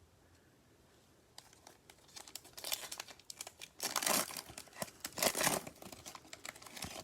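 A trading-card pack wrapper being torn open and crinkled: a run of crackling rustles that starts about a second and a half in, loudest around the middle.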